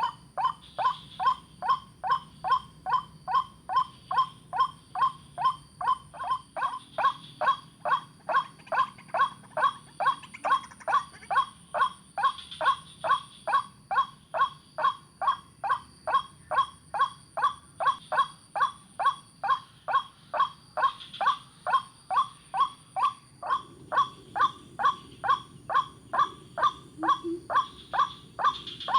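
White-breasted waterhen calling: one short mid-pitched note repeated steadily and without a break, a little over two times a second.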